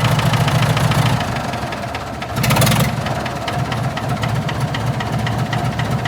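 David Brown tractor engine running at a steady idle with a regular rapid knock. A short, louder burst about two and a half seconds in, then steady idling again.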